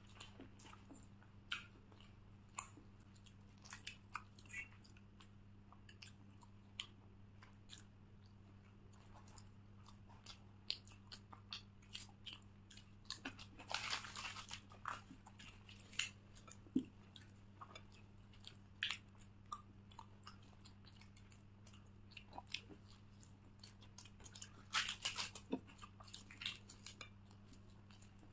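Faint chewing and biting of luchi and egg curry, with soft mouth clicks scattered throughout. Two louder, noisier moments come about fourteen and twenty-five seconds in.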